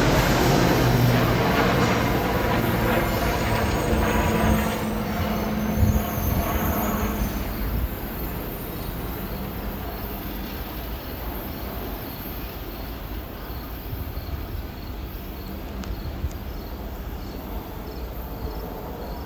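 NJ Transit Arrow III electric multiple-unit train going by, its wheels and running gear fading into the distance over the first eight seconds or so, leaving a quieter steady background.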